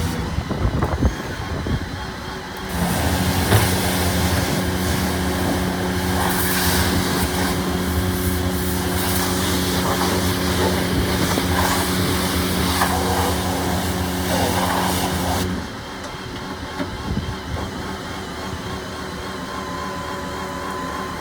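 Garbage truck's diesel engine running with a steady, even drone. It sets in about three seconds in and cuts off abruptly near two-thirds of the way through, giving way to quieter traffic-like street noise.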